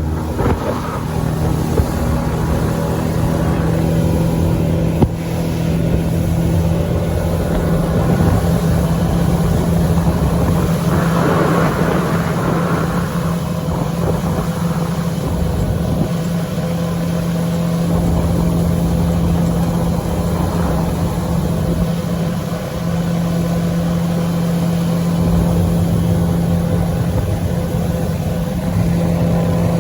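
Fishing boat's motor running steadily under way, a constant engine hum with noise over it, and one brief knock about five seconds in.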